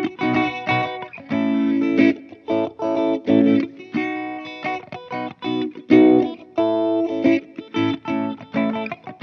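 Electric guitar, an Epiphone Les Paul Special on both pickups, played through a Joyo Vintage Phase phaser pedal into a Fender Twin Tone Master amp. It plays short chord stabs and single-note phrases with brief gaps between them.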